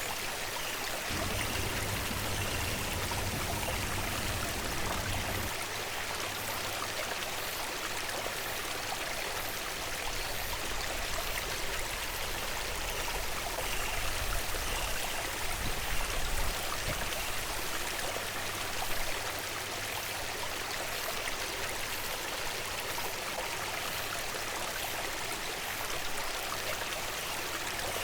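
Steady rush of flowing stream water, with a faint low rumble coming and going.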